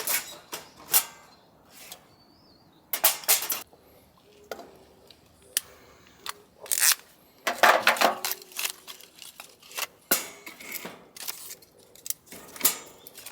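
Irregular clinks and knocks of cookware and utensils being handled, with short quiet gaps between them.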